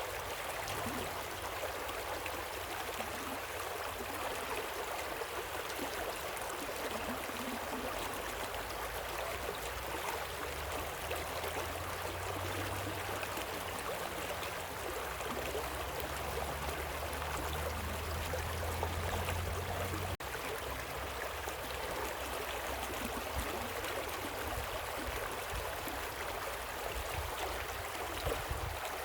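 Running water from a stream and small waterfall, an even, continuous rushing with a low rumble underneath, briefly broken about two-thirds of the way through.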